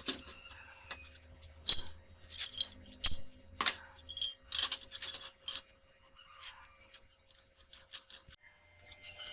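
Metal clinking and knocking: an irregular run of sharp clinks and jingles, as of steel parts being handled, with a few louder knocks in the first half.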